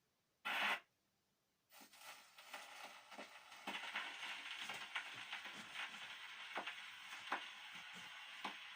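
Surface hiss and crackle of a shellac 78 rpm record as the needle of a Columbia 113a portable wind-up gramophone runs in the lead-in groove before the music starts, with sharp clicks repeating roughly every three-quarters of a second. A brief loud noise comes about half a second in, just before the hiss begins.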